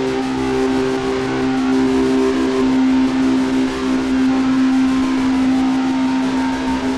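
Loud, steady drone: two held low tones over a dense hiss.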